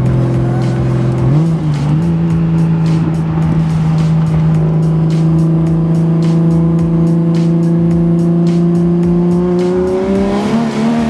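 Cabin sound of a single-turbo BMW 135i's N54 inline-six running through an open downpipe with no exhaust. It drones at steady revs, steps up in pitch about a second and a half in, then rises as it accelerates near the end.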